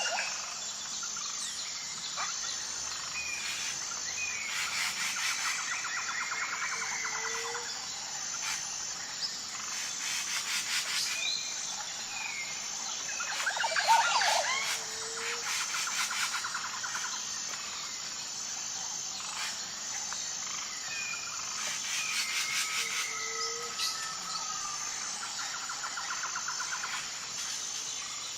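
Wild birds calling, with sweeping whistles and rapid trills, over a steady, evenly pulsing high insect chorus. A short low note recurs about every eight seconds.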